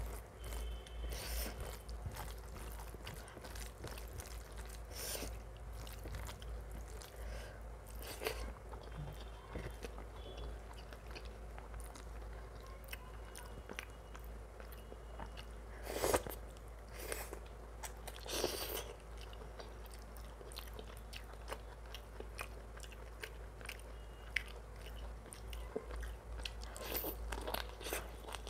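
Close-miked eating of mutton curry and rice: chewing and biting with wet mouth sounds and scattered sharp clicks. The two loudest come a little past halfway, about two seconds apart.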